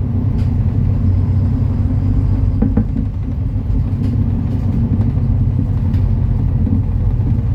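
MAN Lion's City NL293 city bus running, its diesel engine and drivetrain giving a steady low rumble, with a few faint clicks and rattles.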